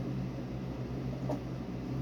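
Steady low hum with a background hiss, and one faint click a little past halfway.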